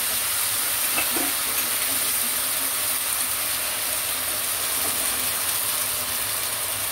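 Chicken thighs sizzling in soy-and-honey teriyaki sauce in a hot frying pan, a steady hiss as the sauce cooks down, with a light knock about a second in.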